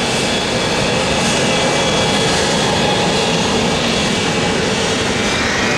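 Jet airliner engines running loud and steady, a broad rushing noise. A faint high whine strengthens and rises slightly near the end.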